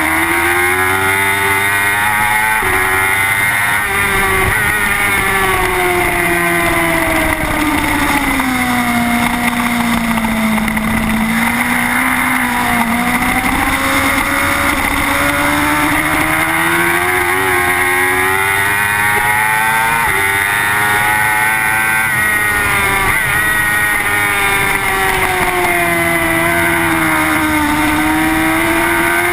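Suzuki GSX-R race bike's inline-four engine heard on board at speed, its note climbing and dipping with the throttle through corners, with a few abrupt changes in pitch, over a steady rush of wind.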